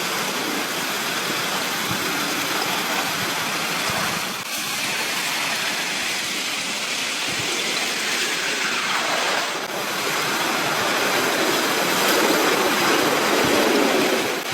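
Moving river ice jam: a steady rushing, grinding noise of ice floes and water, dipping briefly about four and a half and nine and a half seconds in and swelling a little toward the end.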